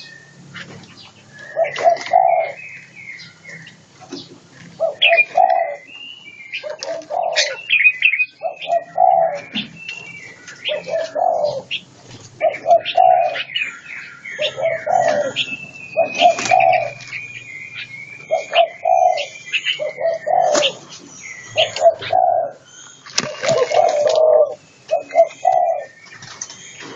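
Doves cooing over and over, a short low coo every second or two, while smaller songbirds chirp and whistle in between.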